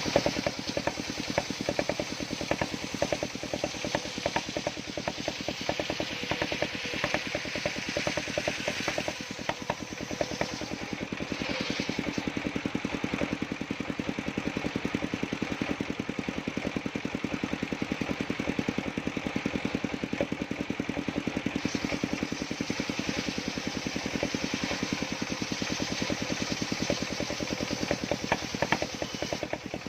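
Engine of a circular-saw sawmill rig running steadily with a rapid, even pulse.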